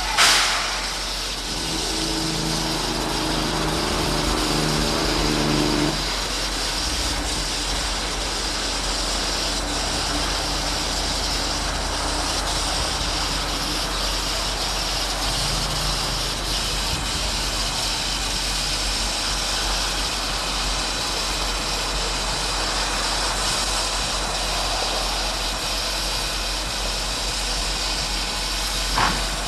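Steady running noise of a narrow-gauge steam train heard while riding aboard, an even rumble and hiss with no clear rhythm. From about two to six seconds in, a held chord of several low tones sounds over it.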